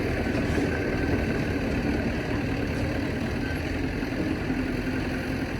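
Heavy diesel engine of earthmoving equipment running steadily at an even speed.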